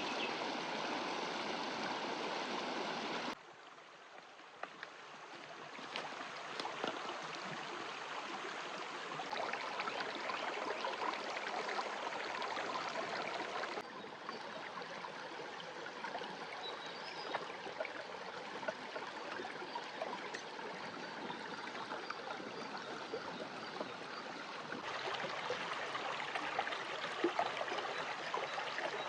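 Running water, a steady stream-like flow, with abrupt changes in level where the shots change: a sudden drop about three seconds in that slowly builds back, another drop near the middle, and a rise again near the end.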